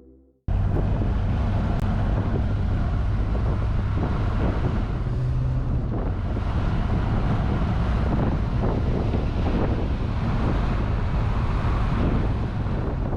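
A car driving, with steady engine and road noise and wind buffeting the microphone.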